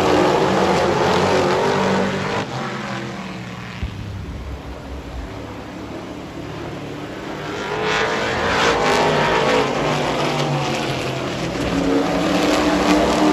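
Super Truck race trucks' engines at speed on a short oval. The pack fades away about two seconds in, then grows louder again from about eight seconds as the trucks come back around.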